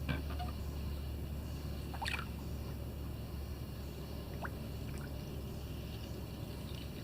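Water dripping and splashing off a kayak paddle: a few short drips and splashes, the loudest about two seconds in, over a steady low rumble.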